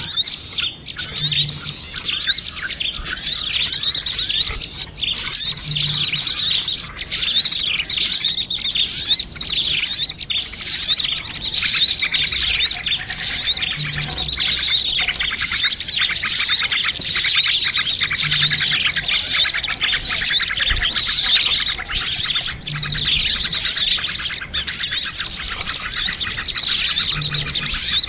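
Bird-lure recording of many small songbirds chirping and trilling at once, a dense, busy chorus of fast, high-pitched calls. A faint low note recurs about every four and a half seconds beneath it.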